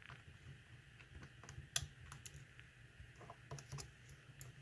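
Faint, irregular light clicks of a hook pick and tension wrench working the pins of a pin-tumbler lock during single-pin picking, with one sharper click a little under two seconds in. The lock is stuck in a false set, the pins being probed without setting.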